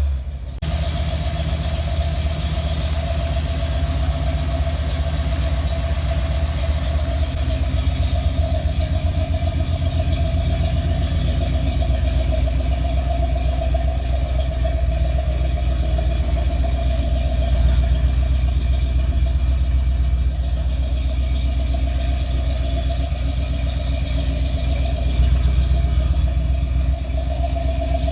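Small-block 350 V8 in a 1957 Chevrolet 3100 pickup running steadily, with a deep, even exhaust note.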